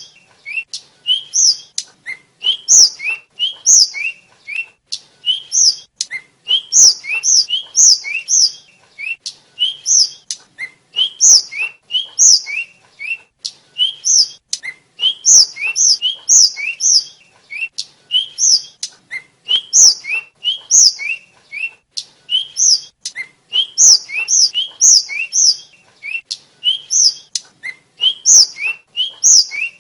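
Tledekan (sulingan), a small flycatcher, singing continuously. It gives quick runs of short, high, sweet whistled notes, three or four in a row, repeated about once a second.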